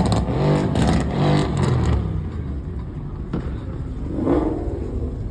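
Car engine revving in several quick blips in the first two seconds, then one more rising rev near the end.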